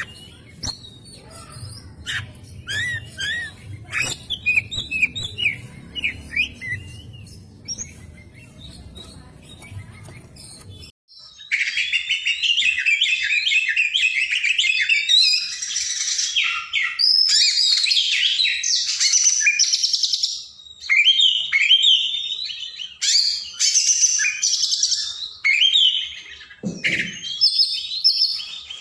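Oriental magpie-robin (kacer) singing a long, rapid, varied run of whistles, trills and chirps. For the first ten seconds or so the song is quieter over a low background hum. About eleven seconds in it switches abruptly to a louder, denser stretch of song, with a brief low thump near the end.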